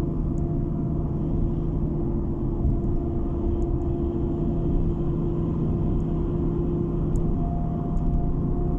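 Car driving at a steady speed, heard from inside the cabin: a steady low rumble of road and engine noise with a constant hum.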